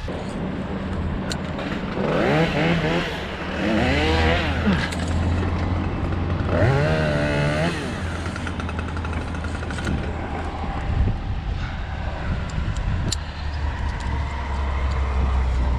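Chainsaw engine revved up and back down in three short bursts, over a steady low engine hum.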